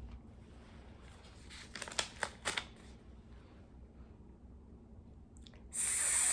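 A few soft clicks and taps of small objects being handled, then near the end a loud, drawn-out hissing "sss" from a voice, the stretched /s/ at the start of the word "sink".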